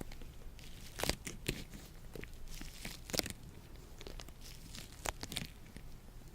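Latex gloves being rubbed and stretched, giving irregular crinkly snaps and pops. The sharpest snap comes about three seconds in.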